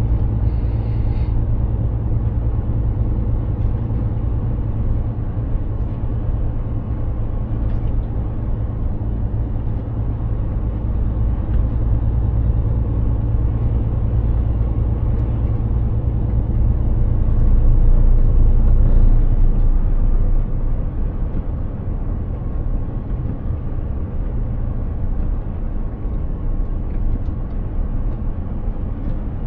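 Mercedes-Benz Actros 2763 truck's diesel engine running steadily under way, a deep drone with tyre and road noise over it. It swells a little about two-thirds of the way in, and then the engine note drops lower.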